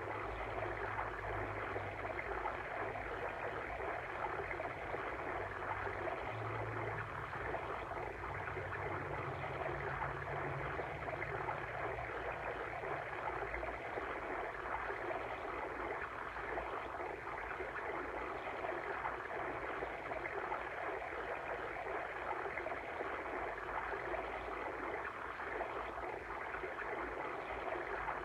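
Steady rushing and babbling of a flowing water stream, an even, continuous water sound with no breaks. A low hum sits underneath for the first ten seconds or so.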